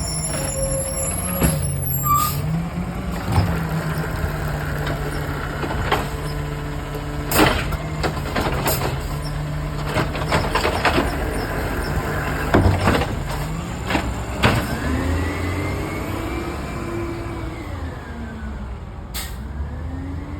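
Peterbilt 320 garbage truck's engine running steadily, with scattered clanks and knocks. Near the end the engine rises and then falls in pitch, and there is a short sharp hiss.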